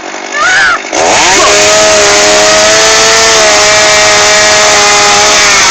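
Chainsaw's small two-stroke engine throttled up about a second in and held at high revs at a steady pitch for about four seconds, then backing off near the end.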